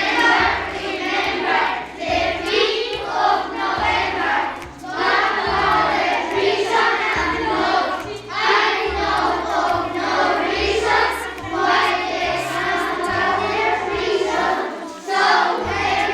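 A group of children singing a song together over a backing track with a bass line that steps from note to note.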